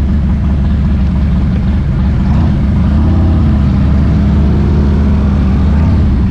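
Motorcycle engine running at a steady idle with a deep low rumble, its pitch lifting slightly about three seconds in and then settling.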